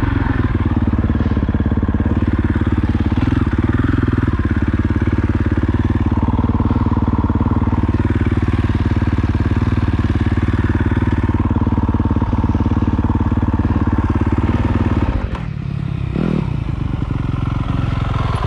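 Off-road motorcycle engine running under steady throttle. About fifteen seconds in the throttle drops off briefly, then a quick rev climbs in pitch before it settles back to a steady run.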